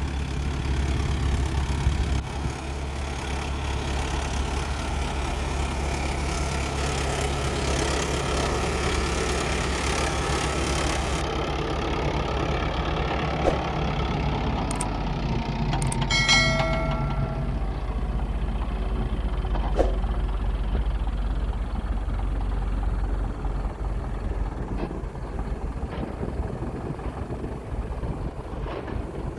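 Diesel engines of heavy earthmoving machinery running steadily with a deep rumble. A brief high pitched tone sounds about sixteen seconds in.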